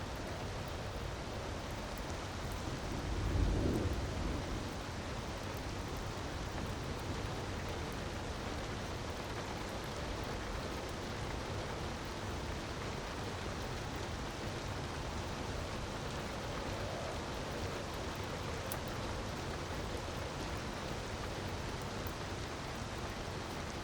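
Steady rushing water of a waterfall in an ambience mix, with a few faint fireplace crackles. A brief low rumble swells about three and a half seconds in.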